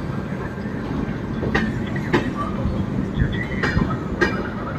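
Rajdhani Express passenger coaches rolling into a station, with a steady rumble of wheels on rail. Sharp clicks come in two pairs as wheelsets cross rail joints.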